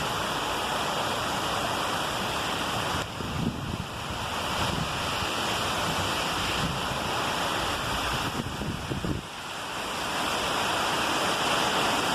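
Heavy rain and strong wind in a storm: a steady rushing noise that dips briefly about three seconds in and again about nine seconds in.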